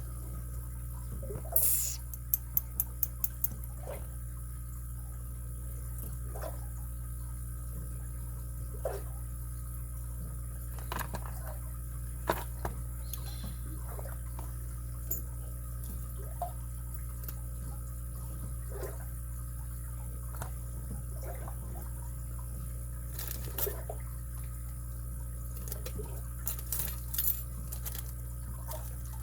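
Lock pick and tension wrench working inside a padlock's keyway: sparse small metallic clicks and ticks, with a quick run of about six sharp clicks two to three seconds in, over a steady low hum.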